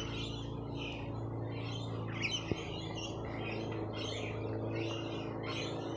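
Several birds chirping and calling in short repeated phrases, over a steady low motor hum.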